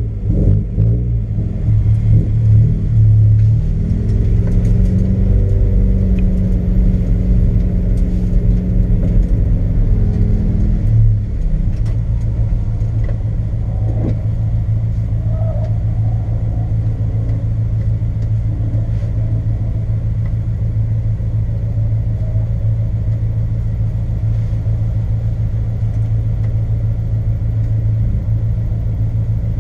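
Mazda Miata's four-cylinder engine heard from inside the cabin, running with shifting pitch as the car creeps forward for the first ten seconds or so, then settling into a steady idle.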